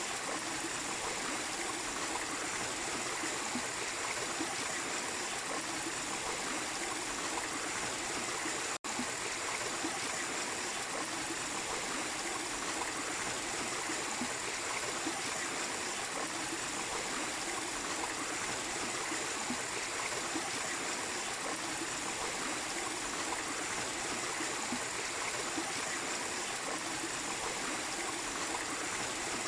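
A small waterfall and stream running steadily, a continuous rush of flowing water. The sound cuts out for an instant about nine seconds in.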